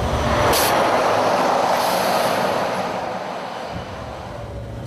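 Heavy truck going by: a rush of tyre and road noise that fades over a few seconds, with a low engine rumble coming back near the end.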